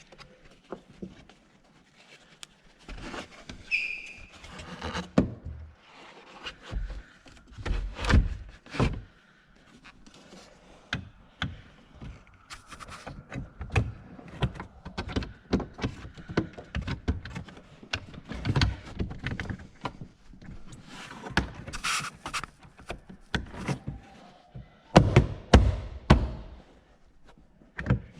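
Hand work on car interior trim and fittings: a steady run of irregular plastic clicks, knocks and taps, with heavier thumps now and then, the loudest cluster near the end.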